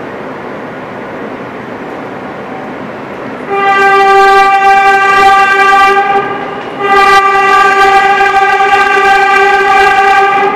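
Subway train horn sounding two long blasts of one steady note, with a short break between them, over the steady running noise of the moving train.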